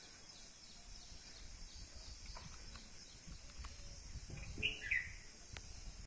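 A bird chirping briefly twice near the end, over a steady high hiss and a low rumble.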